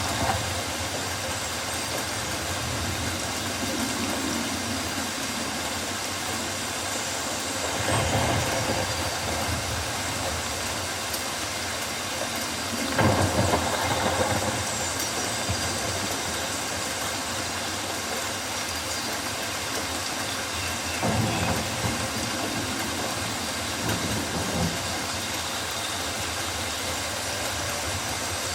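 Steady rain falling on rainforest foliage, an even hiss, with a few brief louder swells along the way.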